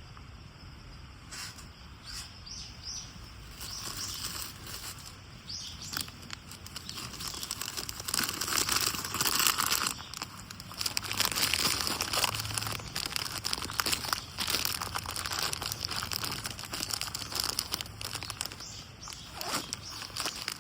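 Crinkling and rustling of something being crumpled and handled by hand while getting a hard-to-light campfire going, louder and busier in the second half. A few short bird chirps come in the first seconds.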